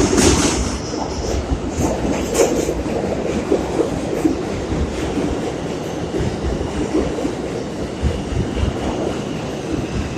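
New York City subway train rolling past the platform, wheels clattering over the rail joints with a steady rumble.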